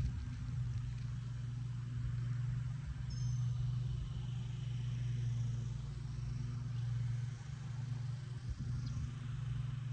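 Steady low engine hum, unchanging throughout, with a couple of faint high chirps over it.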